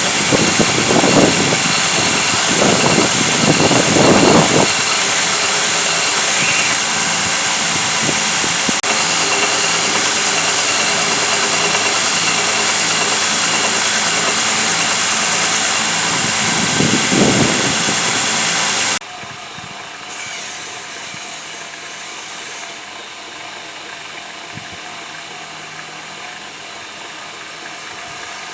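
A motor-driven power tool running steadily, with a few short swells when something is pressed against it. About two-thirds of the way through it drops suddenly to a quieter steady hum.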